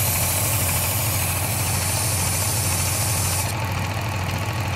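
Work Sharp Ken Onion Edition electric belt knife sharpener running with a steady motor hum, a kitchen knife blade drawn across its abrasive belt with a hissing grind. The high hiss drops away about three and a half seconds in.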